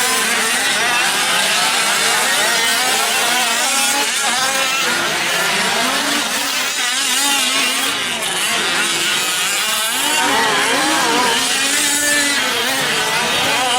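Several 5th-scale gas RC trucks' small two-stroke engines buzzing and revving together, their pitches constantly rising and falling as they race around the track.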